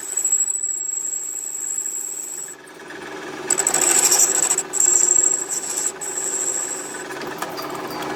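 A metalworking machine running with a steady high-pitched squeal over a steady hum. The squeal stops about two and a half seconds in and returns about a second later.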